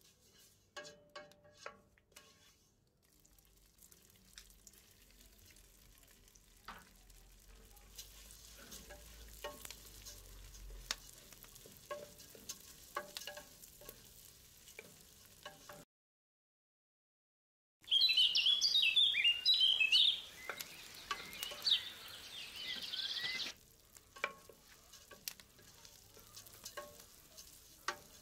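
A wooden spoon stirs vermicelli and freekeh in hot oil in a stainless steel pot, knocking against the pot over a soft sizzle. After a brief gap of silence about two-thirds through, a loud burst of crackling sizzle lasts about five seconds, then the stirring knocks return.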